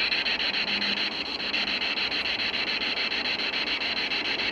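Spirit box radio sweeping through stations: choppy static hiss that pulses rapidly and evenly, about ten times a second.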